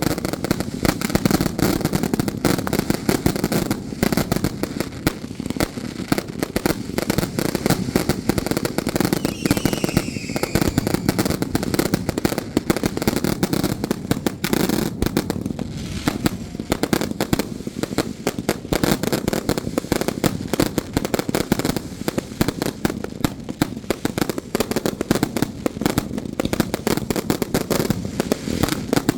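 Firecrackers going off in a rapid, unbroken crackle of small bangs, with a brief falling whistle about ten seconds in.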